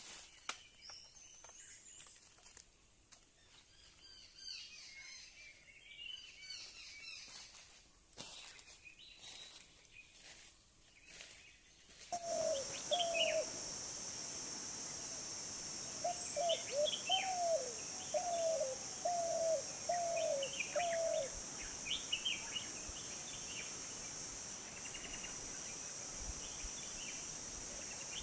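Wild birds calling from the treetops: scattered faint chirps at first. About twelve seconds in, a steady high insect-like drone starts, and one bird calls a run of short falling notes, in twos and threes, among higher chirps.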